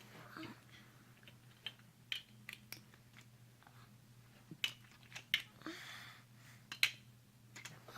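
Toy blocks being handled and set in place: a series of sharp, irregular clicks and clacks, with a brief scraping rustle about three quarters of the way through.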